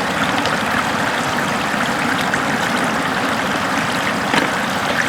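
Floodwater flowing steadily, a constant wash of running water with small scattered splashes.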